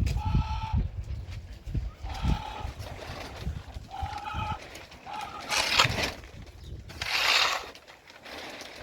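An animal calling repeatedly, short steady cries of about half a second, a second or two apart. Two brief rustling bursts of noise come late on.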